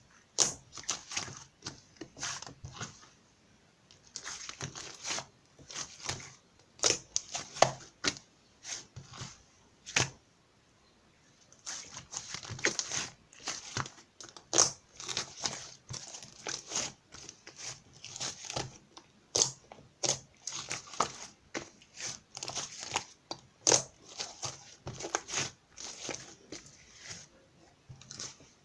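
Irregular crinkling and rustling handling noises, full of short sharp clicks, with a brief pause about ten seconds in.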